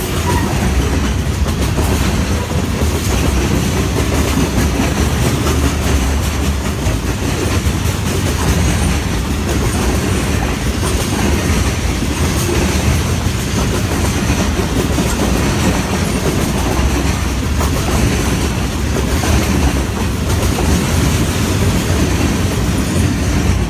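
Covered grain hopper cars rolling past close by, a steady loud rumble with wheels clicking over the rail joints.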